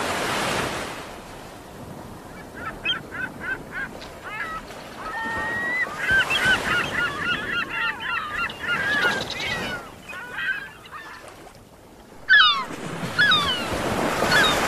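Gulls calling: runs of short, yelping calls with a few longer falling calls near the end, over a steady background hiss.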